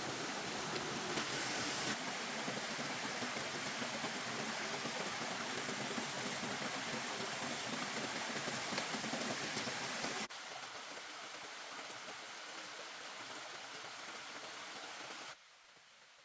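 Steady rushing water noise that drops abruptly in level about ten seconds in and again near the end, where only a few faint ticks are left.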